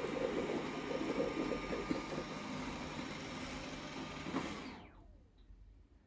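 Dreame D10 robot vacuum running, its suction motor and brushes making a steady whirr with some rattling. About four and a half seconds in the motor shuts off and winds down with a falling whine, as the robot stops to charge.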